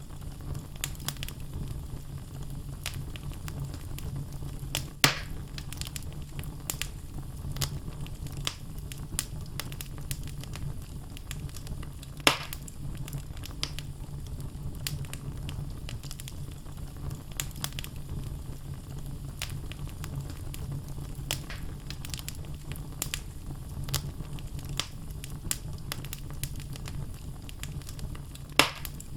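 Wood logs burning in a fireplace: a steady low rumble of flames with constant small crackles, and three louder pops, about five seconds in, about twelve seconds in, and near the end.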